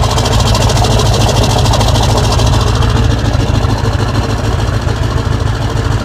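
1997 Ford 7.3 Power Stroke V8 turbo-diesel idling steadily with its diesel clatter, still cold after being started following a night at about zero degrees.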